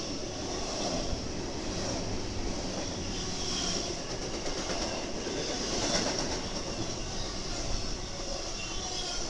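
A train passing, its railcars rolling steadily along the track.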